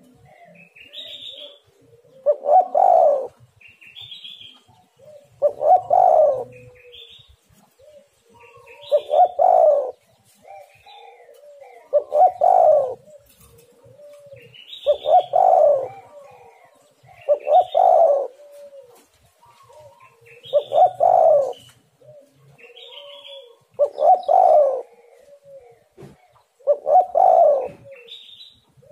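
Spotted dove (tekukur) cooing: a loud phrase repeats about every three seconds, each led in by softer coo notes and short high chirps.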